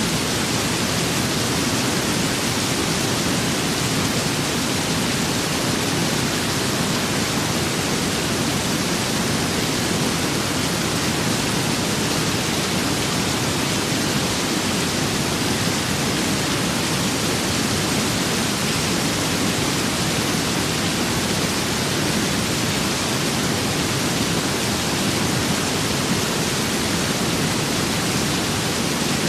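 Steady rain with wind, an even, unchanging hiss with no single drops, gusts or thunder standing out.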